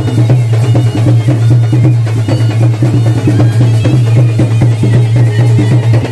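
Loud traditional folk drumming, dense and fast, over a steady low drone.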